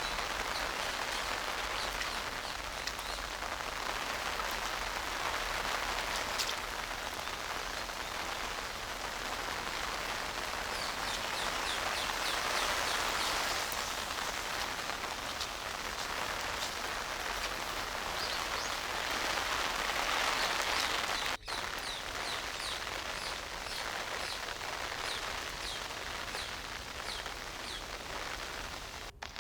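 Steady rain falling, a continuous even hiss, with rows of faint, quick high chirps at times and a brief dropout about two-thirds of the way through.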